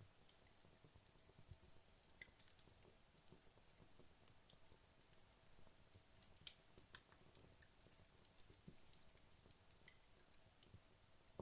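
Faint crackling of burning wood logs in a fireplace: scattered small pops and snaps at irregular intervals, with a few closer together about six to seven seconds in.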